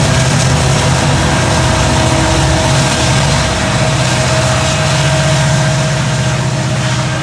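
Diesel locomotive engines running close by, a loud, steady low rumble with a thin steady whine above it.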